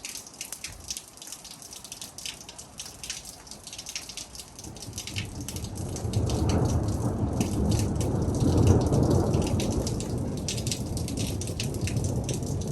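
Rain falling with individual drops ticking close by, and a long low rumble of thunder that builds from about four seconds in, peaks a few seconds later and slowly dies away.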